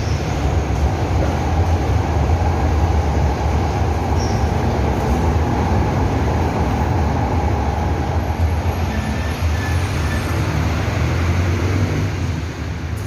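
Steady vehicle noise: a continuous low rumble with an even hiss of road or wind noise over it.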